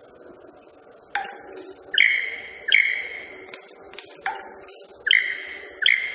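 Club-winged manakin making its wing song: a series of sharp, ringing tones, each starting suddenly and fading over about half a second, roughly one a second. The male produces them by rubbing specialised wing feathers together like a bow on a string.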